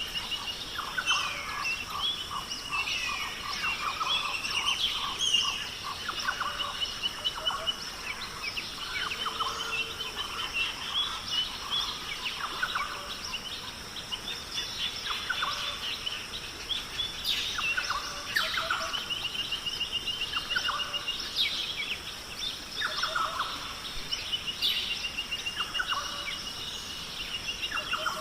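Outdoor bird chorus: several birds chirping and singing, with a fast trill at the same high pitch repeating every few seconds, over a steady high-pitched drone.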